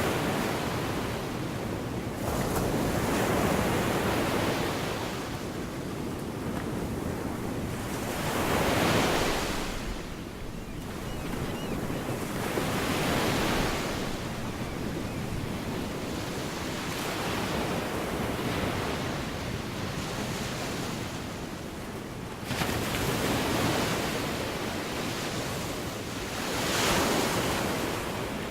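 Gulf of Mexico surf breaking and washing on the beach, swelling every few seconds, with wind on the microphone.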